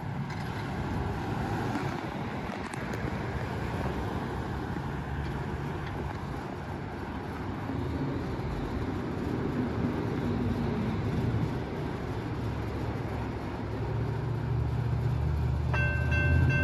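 Low rumble of approaching CSX diesel locomotives, growing louder over the last few seconds. Near the end the grade crossing bell starts ringing steadily as the crossing signals activate.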